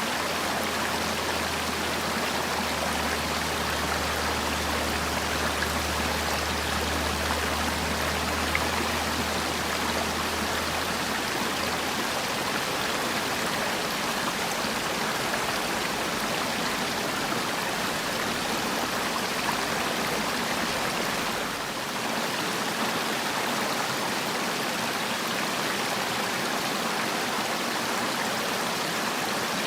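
Mountain valley stream, water rushing steadily over rocks. A faint low hum lies under it for the first ten seconds or so.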